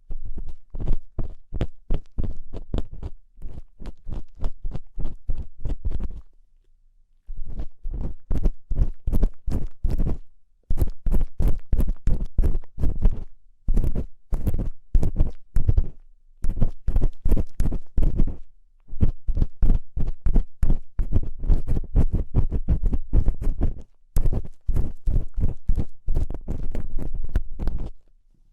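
Ear-cleaning ASMR: a tool scraping and scratching inside a microphone's ear in quick runs of crunchy strokes, heavy and close, stopping briefly several times, imitating crunchy earwax being scraped out.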